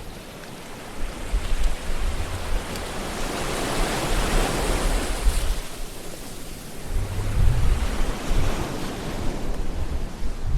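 Ocean waves breaking and washing on a shore, one wave swelling up to a peak about halfway through and then ebbing. Low rumbles of wind on the microphone come in twice in the second half.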